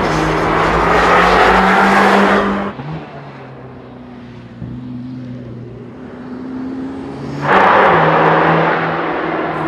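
Mercedes-AMG GT Black Series twin-turbo 4.0-litre V8 running hard on track. Its exhaust note holds a steady pitch, drops suddenly to a quieter, lower note a little under three seconds in, then comes back loud about two seconds before the end and slowly fades.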